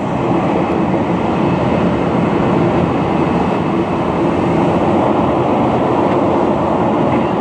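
Jet airliner engines running steadily: an even, constant rush with a steady low hum under it.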